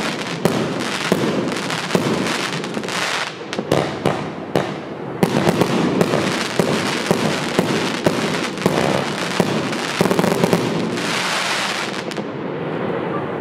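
An 80-shot consumer fireworks cake firing continuously, a dense run of launches and bursts overlapping one another. It thins out near the end.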